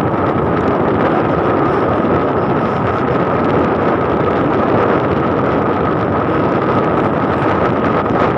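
Wind rushing over the microphone of a moving motorcycle, with the engine running underneath. A thin, steady whine holds throughout.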